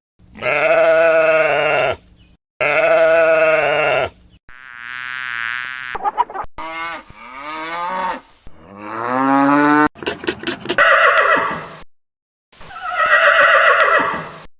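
A string of separate farm-animal calls edited back to back, each cut off sharply. Two long, matching calls come first, followed by several shorter, different calls.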